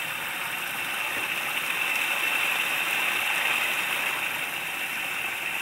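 Water running and splashing down the stepped spillway of a small pondless waterfall, fed by a submersible pump: a steady splashing hiss that grows a little louder about two seconds in.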